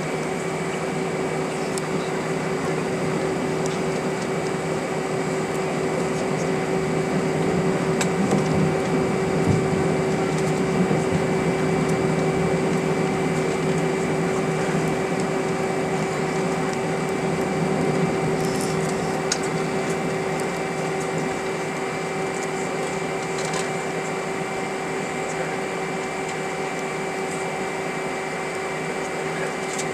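Steady cabin drone of an Airbus A320: engine and air-conditioning noise with several fixed whining tones that hold their pitch, getting slightly louder for a while in the middle.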